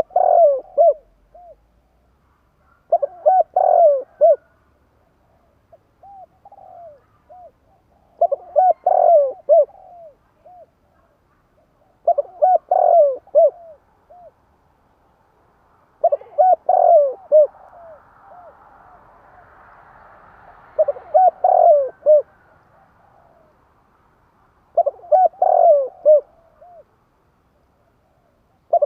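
Spotted dove cooing: a short phrase of hoarse coo notes repeated about every four seconds, as used for a dove-trapping lure call.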